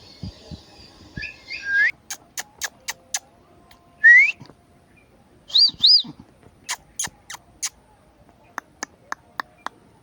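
Indian ringneck parrot whistling: short rising whistles about two seconds in and again at four seconds, then a double up-and-down whistle near six seconds. Runs of sharp clicks come between them.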